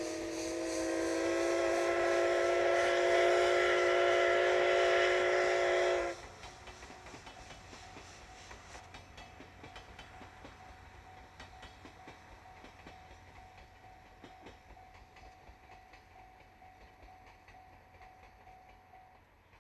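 Steam locomotive whistle blown in one long blast of about six seconds, several tones sounding together at a steady pitch, then cutting off sharply. After it the train's running noise carries on much fainter, slowly fading away.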